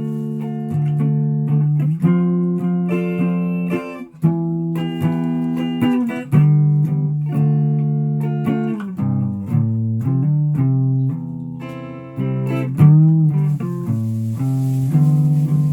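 Guitar played solo: sustained notes and chords changing every second or so, with a few bent, wavering notes in the middle and near the end.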